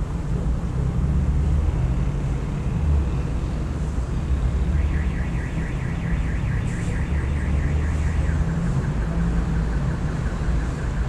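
Steady low rumble of city traffic. About five seconds in, a small bird gives a fast trill of short repeated notes for about three seconds, then continues more faintly.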